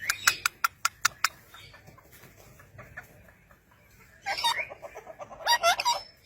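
A pet parrot calling: two bursts of squawky, warbling calls that sweep up and down in pitch, about four and five and a half seconds in. The calls are preceded by a quick run of about eight sharp clicks in the first second or so.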